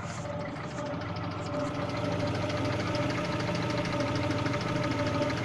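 Car engine idling cold with a fast, even rattling knock over its steady running. The knock appeared after a brief oil starvation, and the owner first suspected worn bearing shells, but it almost disappears once the engine is hot.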